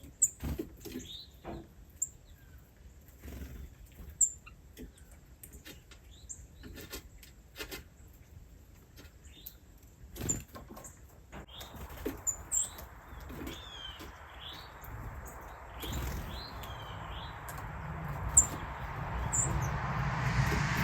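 Small birds chirping in short high calls among scattered taps and rustles. From about halfway a steady rumble and hiss builds, growing louder toward the end.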